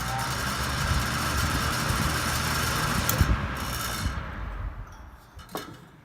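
Fasco motor and metal blade of a 1974 Lakewood K-10 10-inch table fan running at full speed close to the microphone, a steady rush of moving air. From about four seconds in the sound dies away, and a sharp knock follows near the end.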